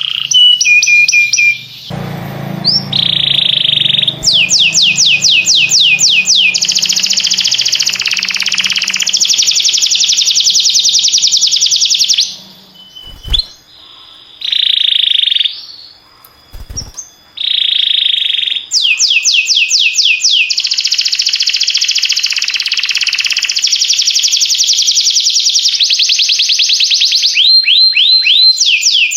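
Domestic canary singing: fast trills of rapidly repeated falling notes, each run held for a few seconds before switching to another, with a break of a few seconds midway that holds two short low knocks.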